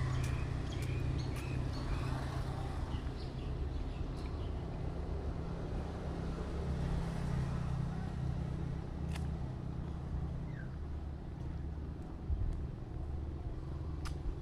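An engine idling: a steady low drone, with a few faint sharp clicks and short chirps over it.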